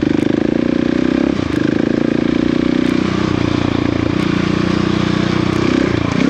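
Adventure motorcycle engine running under way on a dirt trail, its note shifting up and down several times with throttle changes, with brief dips about a second and a half in and again near the end, over a steady rush of noise.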